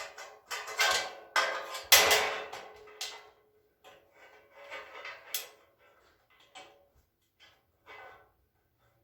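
Metal shelving parts clanking and clattering as they are handled and fitted together: a cluster of knocks in the first three seconds, the loudest about two seconds in with a brief metallic ring, then lighter, scattered taps.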